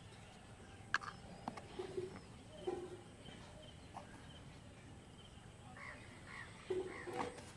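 Birds calling now and then, short scattered calls, with a few light clicks and rustles of a plastic bag and a steel bowl being handled close by.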